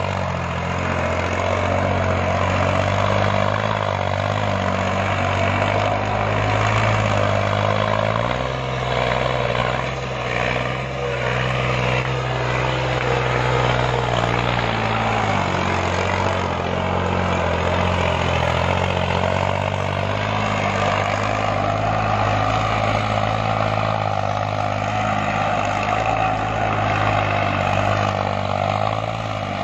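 Diesel engine of a New Holland tractor running steadily under throttle; its note shifts for several seconds in the middle, then settles back.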